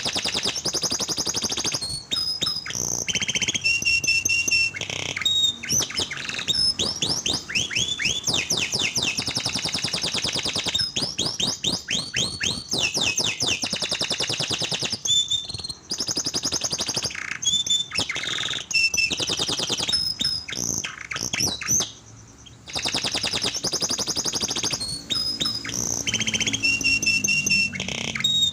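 Canary singing a long, near-continuous song of fast high trills and repeated rolling phrases, with one short pause about two-thirds of the way through.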